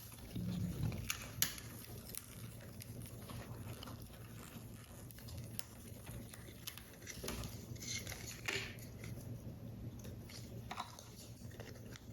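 Close-up handling of paper model parts: soft paper rustles and crinkles with scattered small taps and ticks, including a sharp tick about a second in and a longer rustle near the two-thirds mark.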